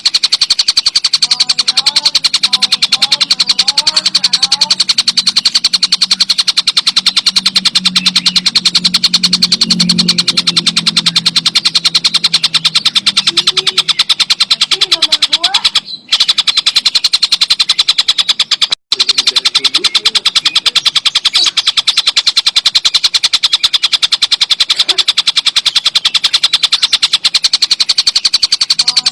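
Tengkek buto bird calling in a loud, continuous, very rapid high-pitched rattling trill, broken by two short gaps a little past the middle.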